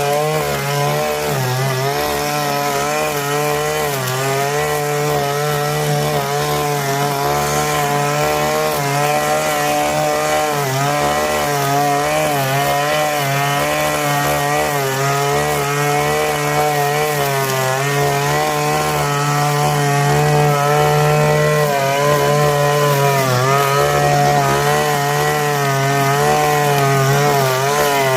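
Small two-stroke engine of a garden power tool running without a break, its pitch wavering up and down as it works under varying load.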